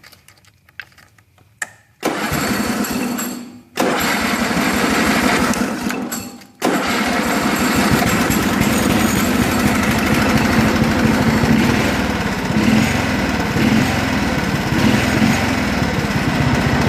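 The 8-horsepower Briggs & Stratton single-cylinder engine of a Toro 832 lawn tractor being started. After a few faint clicks it fires for about a second and a half and cuts out, then again for a couple of seconds and cuts out. On the third try, about six and a half seconds in, it catches and keeps running steadily.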